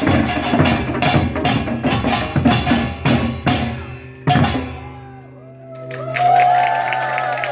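Percussion troupe drumming a fast, steady beat of heavy strikes that ends on one accented final hit about four seconds in. A low ringing tone sustains after the last hit.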